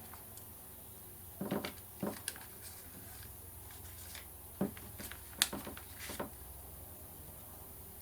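Paper and sticker sheets being handled and shuffled on a craft table: soft rustles and light taps in short bursts, with one sharper click a little past the middle.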